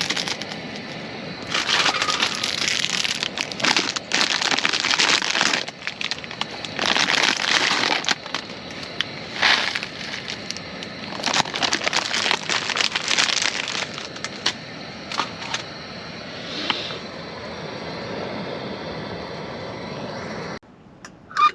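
Rustling and crackling in repeated bursts a second or two long, full of small crinkles and clicks, like material being handled or crunched. It drops off suddenly near the end.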